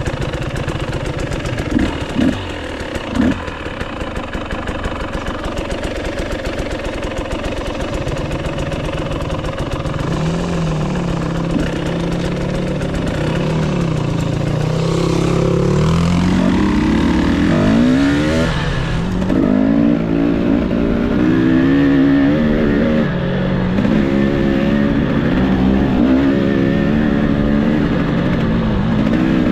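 Enduro dirt bike engine revving up and down repeatedly while riding off-road over rough ground, the throttle opening and closing every second or two. A few sharp knocks sound about two to three seconds in.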